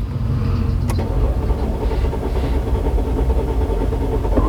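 Mercedes-Benz E350 V6 being cranked on the starter motor, turning steadily without catching, with a click about a second in followed by a steady whine. The engine cranks but will not start, while the scan tool shows no RPM signal: the mechanic suspects a missing crankshaft position sensor signal or its wiring.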